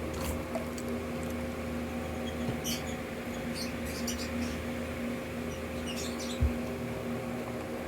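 Eating mouth sounds: scattered small wet clicks and smacks over a steady low hum in a small room, with a soft thump about six and a half seconds in.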